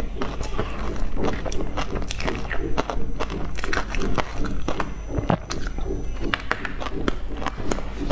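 Close-miked biting and chewing of a soft bun coated in shredded meat floss: many small wet mouth clicks and smacks, irregular throughout, over a steady low hum.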